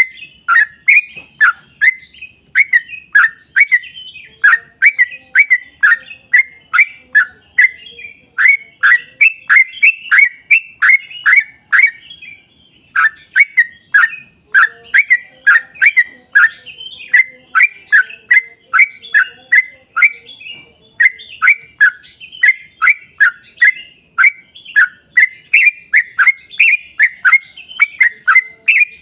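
Yellow-vented bulbul (trucuk) singing a long, fast run of loud, bubbly notes, about three or four a second, broken by a short pause about twelve seconds in.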